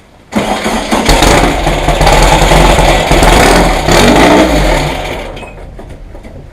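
1835 cc air-cooled Volkswagen flat-four engine starting abruptly and running loud for about four seconds, then dying away over the next second or so as it loses fuel.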